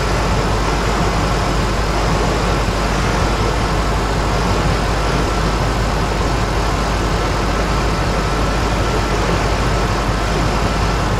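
A Lincoln Navigator's 5.4-litre V8 idling rough with a cylinder misfire, running steadily.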